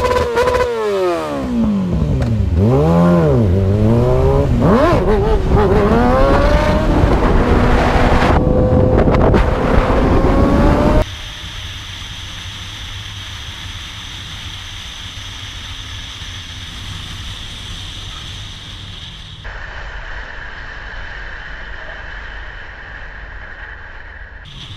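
A motor vehicle engine revving up and down several times, then climbing steadily in pitch as it accelerates. About eleven seconds in it cuts off abruptly to a much quieter steady rushing noise with a faint high whine.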